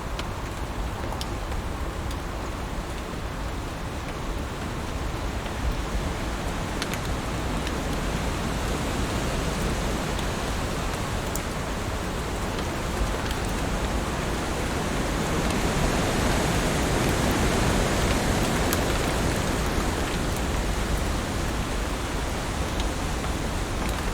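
Heavy rain falling on leaves: a steady dense hiss with scattered sharper drop ticks, swelling louder for a few seconds past the middle.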